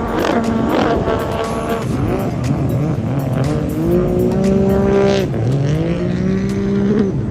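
Racing powerboat engines whining. The pitch climbs and holds, drops off about five seconds in, then rises and falls again near the end.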